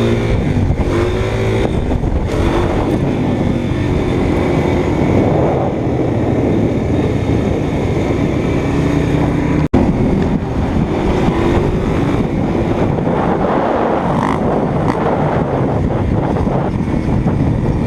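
Motorcycle engine running under way, its pitch rising and falling with the throttle, over heavy wind rumble on the microphone. The sound drops out briefly about ten seconds in.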